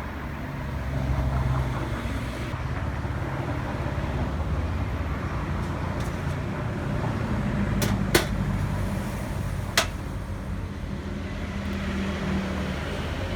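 Nissan Teana J32 car engine running with a steady low hum. A slightly higher drone comes in during the middle and again near the end. Two sharp clicks come about two seconds apart, around the middle.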